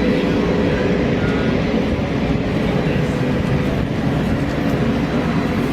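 Steady rumble of F-15 fighter jet engines running.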